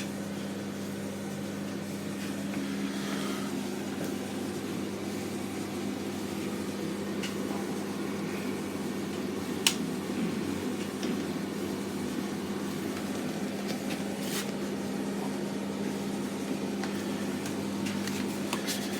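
Hotpoint FETV60 tumble dryer running on freshly fitted drum bearings: a steady hum with a low rumble from the turning drum. A few faint ticks, and one sharper click about halfway through.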